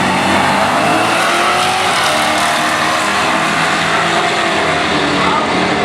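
Drag-racing muscle car engines running hard, with several engine notes rising and falling in pitch over a rough, noisy roar.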